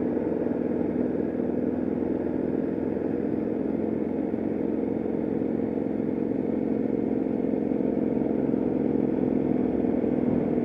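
Sport motorcycle engine running at a steady, unchanging speed, heard from on board the bike during a slow track lap.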